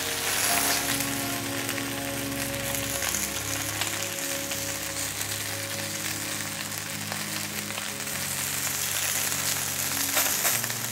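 Sliced boiled potatoes frying in hot fat in a pan: a steady sizzle as moisture from the potatoes spatters in the fat.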